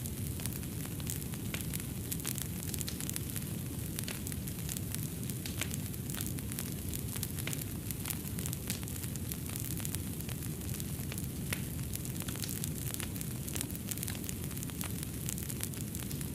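Fireplace fire crackling, with frequent sharp irregular pops and snaps over a steady low rumble of the flames.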